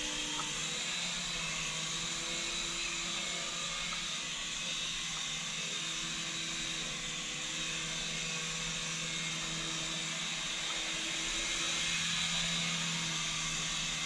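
Syma S107G coaxial mini RC helicopter flying: its small electric motors whine and the rotor blades whir steadily, the pitch dipping and rising a little now and then as the throttle changes.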